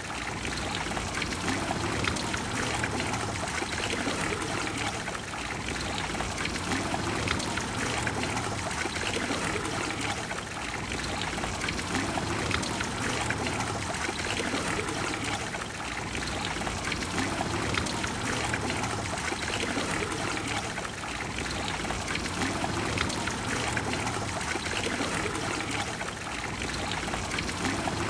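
Water of the Trevi Fountain flowing, a steady, unbroken rush of water.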